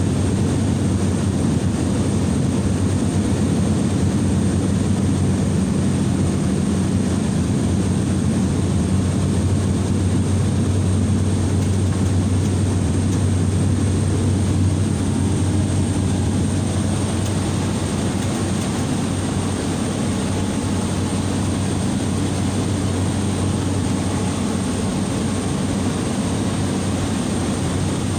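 Cabin noise of a small turboprop airliner in cruise: a steady engine and propeller drone with a deep hum and a faint high whine. It eases slightly in level a little past halfway.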